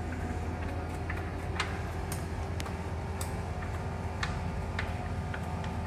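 Steady low drone of a car cabin on the move, with a run of light, sharp ticks roughly every half second.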